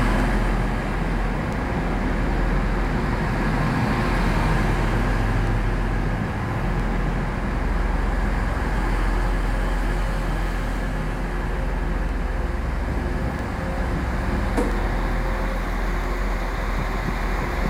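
TransPennine Express Class 185 diesel multiple unit standing at the platform with its diesel engines idling, a steady low rumble.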